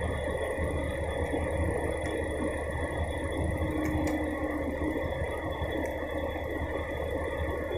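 Diesel engine of a log-delimbing machine running steadily: a low drone with a faint steady whine above it.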